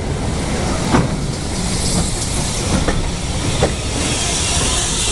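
Train wheels rumbling along the rail, heard from aboard a moving carriage, with a few sharp clicks over rail joints. A hiss of steam grows stronger from about four seconds in as the carriage passes close by a steam tank engine.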